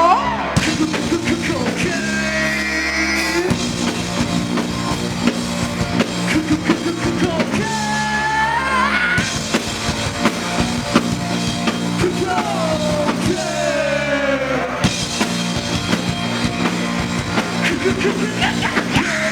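Live rock band playing a song: drum kit, guitars and bass, with a sung vocal line sliding between notes over them.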